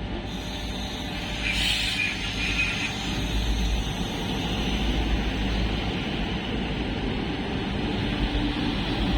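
Three coupled Minuetto diesel multiple units running past with a steady engine and rail rumble. There is a brief high hiss about one and a half seconds in.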